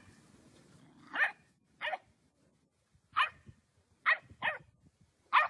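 A dog barking: six short, separate barks spread over a few seconds.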